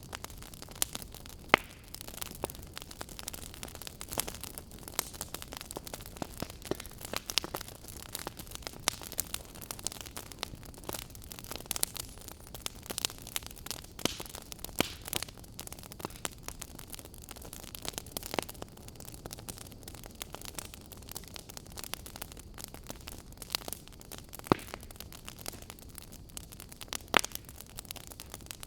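Fire crackling: irregular sharp pops and snaps, a few louder than the rest, over a steady soft hiss.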